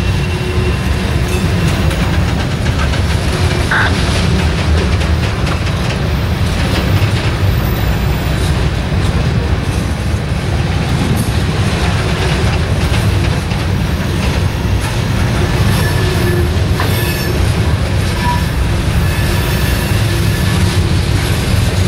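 Freight train's hopper and gondola cars rolling past close by: a steady heavy rumble of steel wheels on the rails, with scattered clicks and brief thin wheel squeals that come and go.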